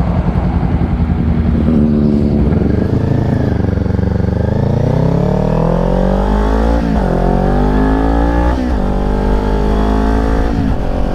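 Kawasaki Ninja 400's parallel-twin engine accelerating through the gears. The revs climb, then drop sharply at three upshifts, about seven, eight and a half, and ten and a half seconds in, and climb again after each one.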